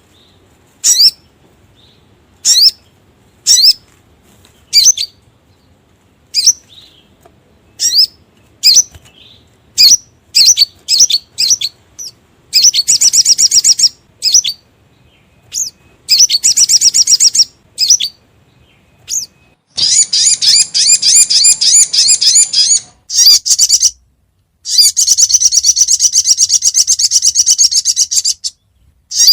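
Recorded call of a sogok ontong (little spiderhunter), played as a bird lure: sharp, high single notes about once a second, then from about halfway long, rapid trilled phrases, the longest lasting around four seconds near the end.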